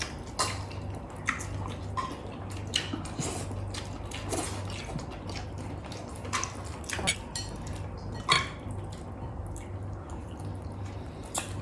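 Close-up eating sounds: irregular wet smacks and clicks of chewing and handling food, with light clinks of utensils on dishes, over a low steady hum.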